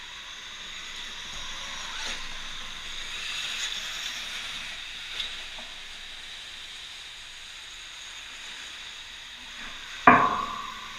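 Electric dirt bike running on the indoor track, a steady hiss with a faint high whine, and one loud sharp clunk about ten seconds in.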